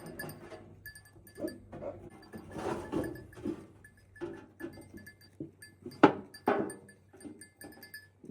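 A flock of sheep and young lambs bleating, with many short overlapping calls one after another. Two loud bleats close by come about six seconds in, half a second apart.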